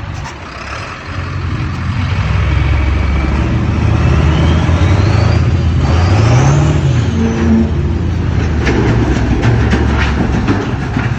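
Off-road truck engine running hard under load, revving, with a high whine that climbs in pitch for a few seconds and then falls away. Scattered clicks and knocks come in the last few seconds.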